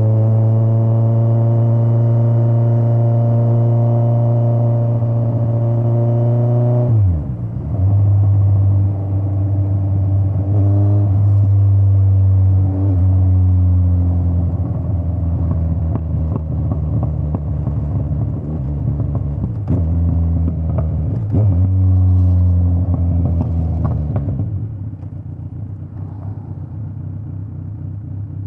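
Straight-piped Kawasaki Z900 inline-four motorcycle engine pulling with a slowly rising pitch for about seven seconds, then dropping sharply as the throttle closes or a gear changes. It then runs at varying throttle with several brief dips, and settles to a lower, quieter note near the end.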